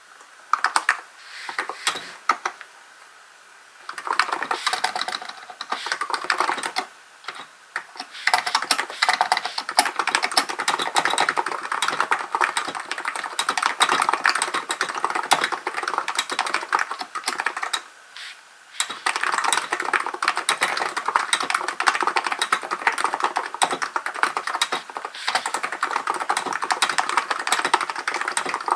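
Typing on a Hansung GK898B electrostatic capacitive (Topre-style) keyboard: a fast run of key clacks. It starts in a few short bursts with gaps, then settles into near-continuous typing, with a brief pause about two thirds of the way through.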